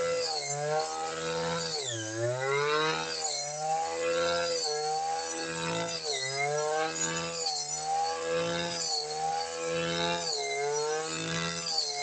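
Brush cutter engine running at high revs, its pitch dipping and recovering about every second and a half as the cutting head takes load, most deeply about two seconds in.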